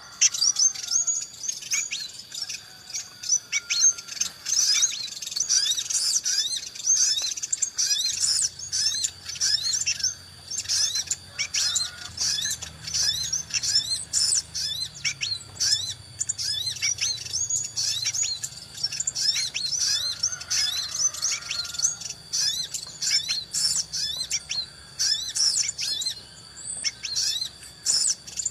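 Small birds chirping, a dense, unbroken chatter of quick high chirps, with a steady high ringing tone beneath.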